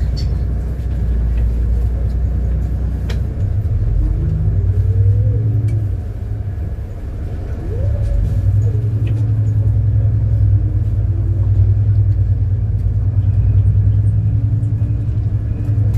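City bus engine and drivetrain running under way, a steady low rumble heard from on board, with a fainter whine that rises and then falls twice as the bus speeds up and eases off.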